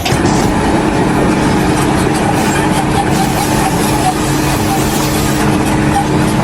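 An engine running steadily and loudly, its note unchanging.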